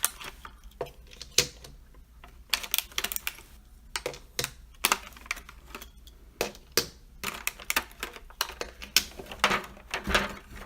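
Irregular clicks and clacks of small die-cast toy cars and plastic packaging being handled as the cars are taken out of their pack.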